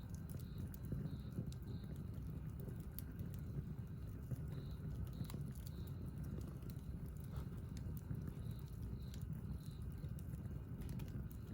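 Wood campfire burning, with a low steady rumble and scattered sharp crackles and pops.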